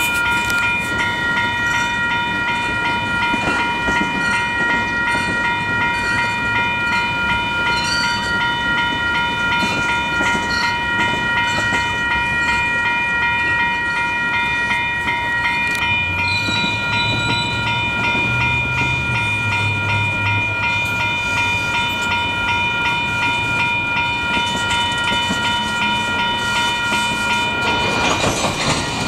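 Grade-crossing warning bells (WCH Type 1 electronic bells) ringing continuously, with a diesel locomotive's engine rumbling low underneath, swelling about halfway through.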